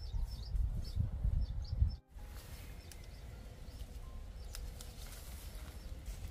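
A bird chirping repeatedly, about three short high chirps a second, over a low rumble. About two seconds in the sound cuts off sharply, and fainter outdoor ambience follows with a few soft clicks.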